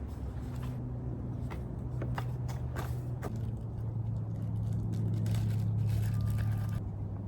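A steady low engine hum, growing a little louder midway, with several sharp clicks and scrapes in the first half.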